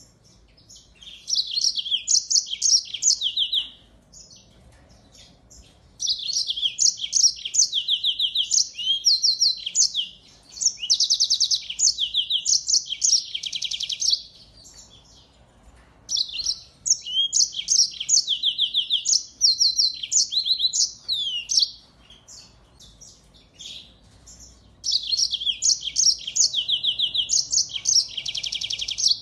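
Caged finch song in repeated bouts of rapid, high twittering trills, each a few seconds long with short pauses between them.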